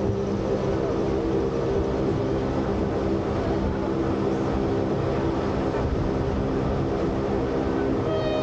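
Electric rack railway train running steadily, a constant rumble overlaid with a steady multi-tone hum from its motors and gearing. Near the end a brief pitched tone sets in.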